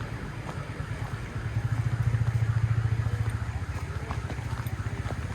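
A vehicle engine running with a low, pulsing rumble that grows louder about a second and a half in, then eases off.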